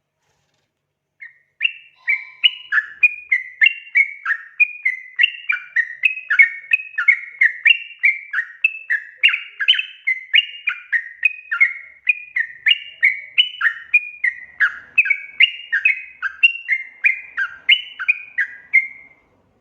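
Yellow-vented bulbul (trucukan) calling: a long, unbroken run of short chirping notes jumping up and down in pitch, about two or three a second, starting about a second in and stopping abruptly near the end.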